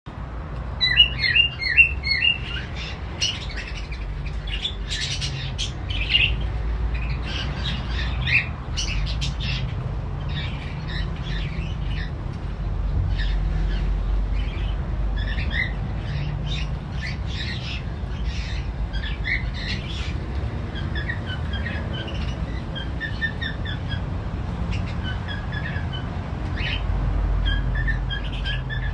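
Pet cockatiels and lovebirds chirping and squawking, a dense run of short high calls throughout, over a steady low hum.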